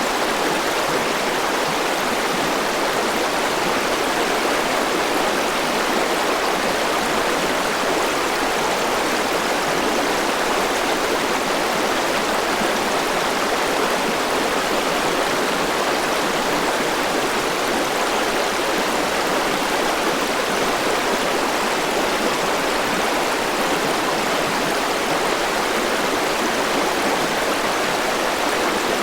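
Forest river rushing over rocks: a steady, even rush of flowing water.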